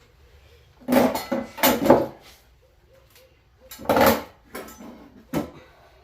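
Metal parts clattering and clanking against each other as lathe components are handled, in two bursts of several knocks about a second in and about four seconds in, with one more clank near the end.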